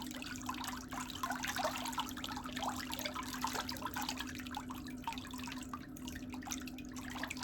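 Water trickling and dripping in many small irregular splashes, over a steady low hum.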